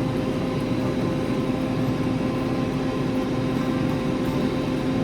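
Air fryer running: its fan gives a steady hum with a held tone over an even rush of air.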